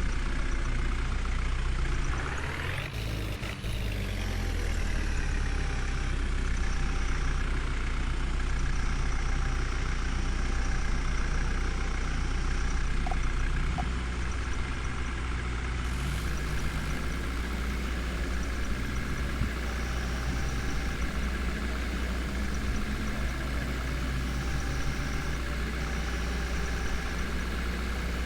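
Heavy diesel engine of a tractor or JCB running steadily, a low continuous hum, with a brief dip and change in pitch about three seconds in.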